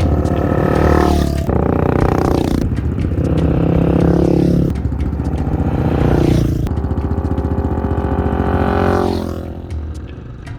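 Honda XR400 single-cylinder four-stroke dirt bike engine pulling hard through the gears: a run of loud stretches, each broken by a sudden pitch drop at a shift. It eases off near the end.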